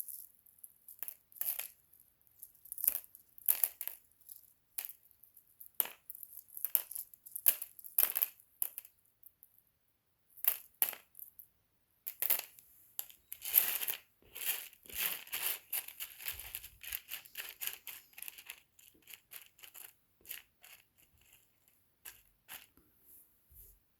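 Small pieces of rough opal clicking and clinking against each other and a hard surface as they are handled, in irregular bursts of sharp ticks that come thickest about halfway through.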